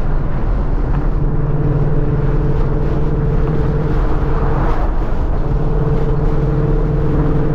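2014 Ford Mustang GT's 5.0-litre V8 exhaust droning steadily while cruising, with road noise underneath. The drone fades briefly a little past halfway, then comes back.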